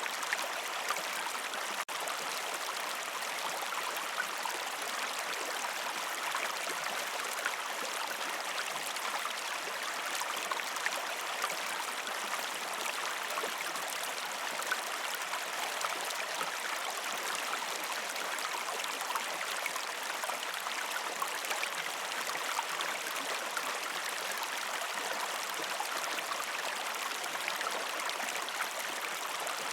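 Gentle river stream flowing over rocks: a steady rush of water flecked with small splashes and trickles. It cuts out for an instant about two seconds in.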